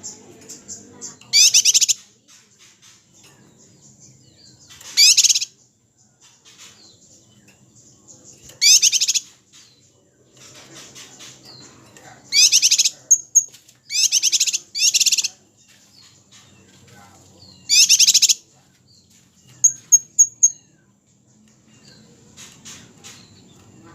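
Kapas tembak bird song for masteran: loud, harsh, high-pitched rapid trills, the 'tembakan' shots, given about seven times in bursts of under a second, with quieter small-bird chirps between them.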